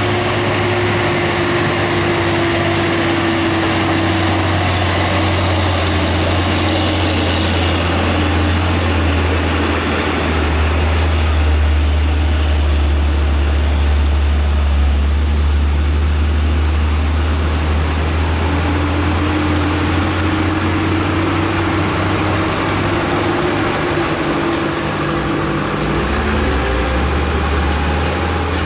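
Heavy diesel truck engine running with a deep, steady drone. Its pitch sinks over the first ten seconds and climbs again in the second half as the revs change.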